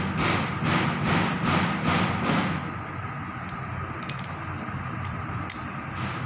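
A series of rhythmic knocks or strokes, about two or three a second, that stop about two and a half seconds in. A steady hum with scattered faint clicks follows.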